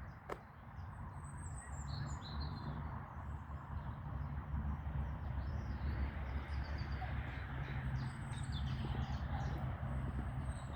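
Small birds chirping and singing in short high phrases over a steady low rumble, with one sharp click just after the start.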